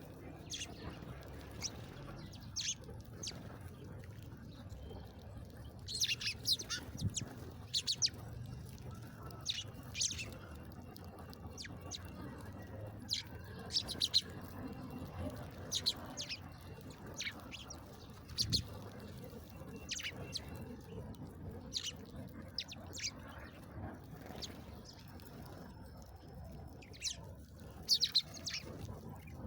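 Small songbirds chirping: many short, sharp high chirps at irregular intervals, coming in little flurries several times.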